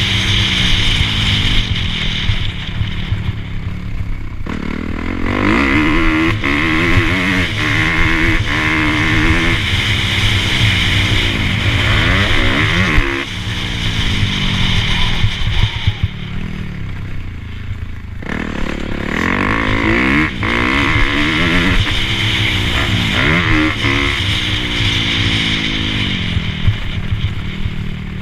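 Dirt bike engine revving, its pitch rising and falling again and again as the throttle opens and closes.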